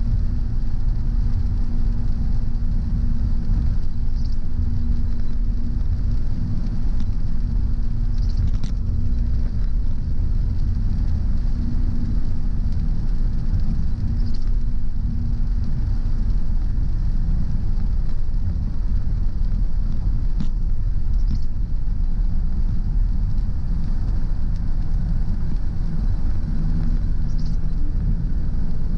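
Car driving on a road: a steady low rumble of tyres and engine, with a steady hum through the first half and again near the end, and a few faint scattered ticks.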